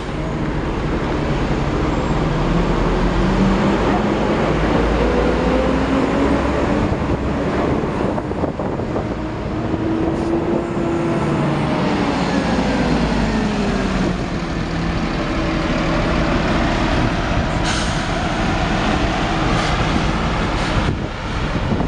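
Wright StreetCar (ftr) bus on a Volvo B7LA chassis pulling away, with the diesel running under load and its loud cooling fan making a vacuum-cleaner-like 'hoover' whine. The whine climbs in pitch for several seconds as the bus accelerates, then falls away.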